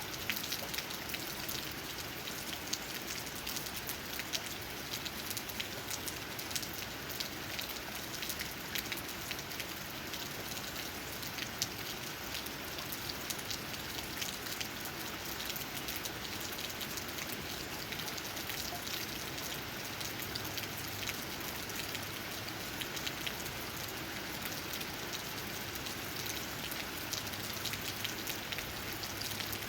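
Steady rain with many individual raindrops tapping on leaves, a constant hiss dotted with sharp drop ticks.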